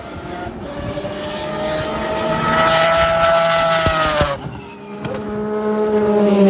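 Historic race car engines at high revs passing by: one engine note climbs steadily, then drops sharply about four seconds in as the car goes past, and another car's engine follows close behind near the end.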